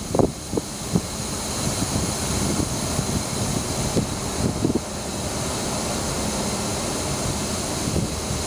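Freight train cars rolling past, with irregular clacks of wheels over the rails in the first second or so, then a steady rushing rumble.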